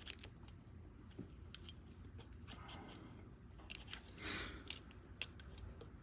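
Faint metal clicks and scrapes of a flathead screwdriver tip working piston rings into the cylinder bore of an EZGO golf cart engine, used in place of a ring compressor, with a longer, softer rasp about four seconds in. The piston is binding and will not go in.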